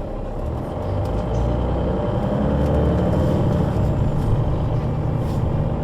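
Solaris Urbino 12 III city bus with a Voith automatic gearbox running under way, its engine and drivetrain growing louder from about a second in as it works harder. A faint high whine sounds through the first half.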